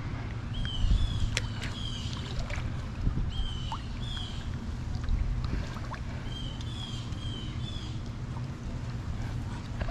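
A small bird singing a short phrase of two or three high chirps, repeated several times, over a steady low rumble of wind on the microphone, with a few sharp clicks in the first couple of seconds.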